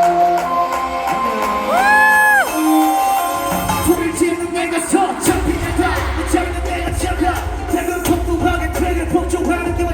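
Live K-pop concert music through arena speakers: a melody with a sliding, bending note, then a heavy bass beat comes in about five seconds in.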